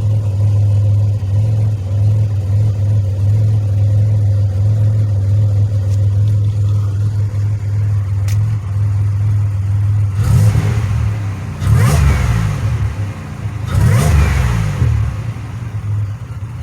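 2007 Pontiac Grand Prix GT's supercharged 3.8-litre V6 idling steadily, then revved three times about ten, twelve and fourteen seconds in, each rev rising and dropping back to idle. The engine is running again after a crank-no-start, and it sounds a lot better.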